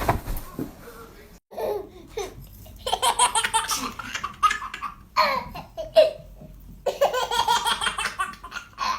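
Baby laughing hard in three bursts of rapid, breathy laughs, after a short bump at the very start.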